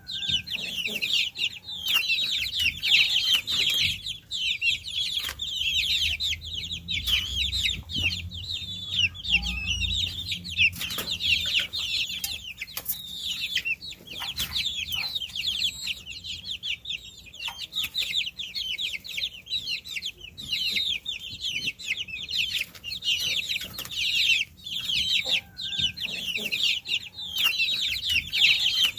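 A brood of baby chicks peeping continuously: many short, high, downward-sliding peeps overlapping one another with no pause.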